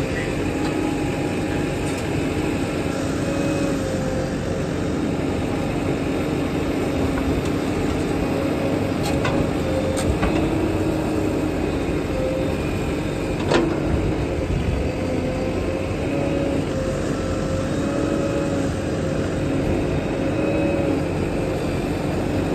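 Heavy diesel machinery engine running steadily with an even hum, from the earthmoving and hauling machines at work. A few sharp clicks are heard, with a louder knock about halfway through.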